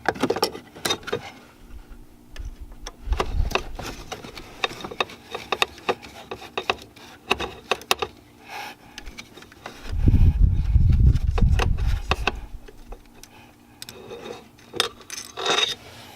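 Small metal clinks, clicks and rattles of hand tools and parts being handled, with a low rumbling thud lasting about two seconds around the middle.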